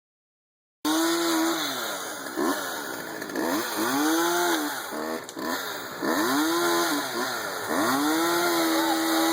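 Chainsaw starting suddenly about a second in, its engine revving up and dropping back again and again, holding high speed for up to a second at a time.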